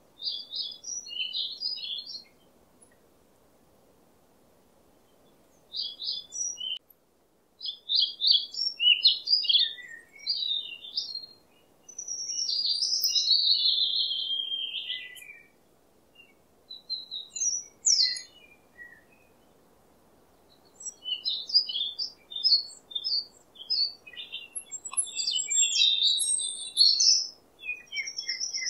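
Wild birds singing: bursts of quick, high chirps and warbled phrases, some lasting a few seconds, with short pauses between.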